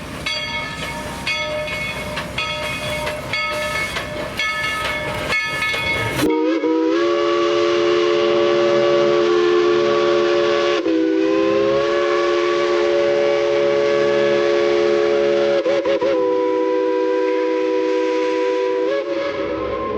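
Steam locomotive bell ringing steadily for the first few seconds. Then the locomotive's chime steam whistle sounds one long blast of several notes together, held about twelve seconds, its pitch sagging briefly twice.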